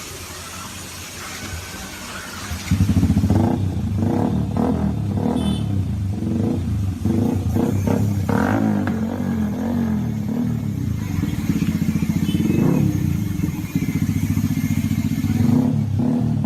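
Yamaha R15 V3's single-cylinder four-stroke engine through its exhaust. It gets suddenly loud about three seconds in, then runs at idle with repeated short throttle blips that rise and fall in pitch.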